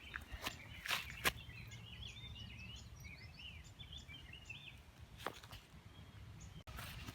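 Small birds chirping and twittering in quick, short warbling notes over a steady low outdoor rumble, with a few sharp clicks about a second in and again around five seconds.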